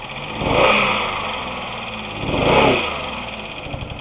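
2001 Pontiac Grand Am's 3400 V6 running rough, revved up twice, about half a second and two and a half seconds in, each time settling back. The engine has a misfire, from a burnt exhaust valve, and rod knock.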